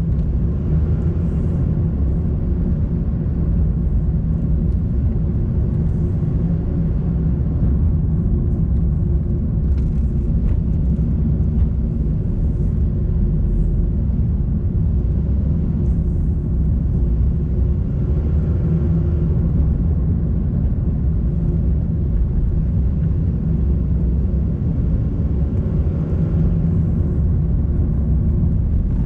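Car being driven, its engine and road noise making a steady low rumble with no break.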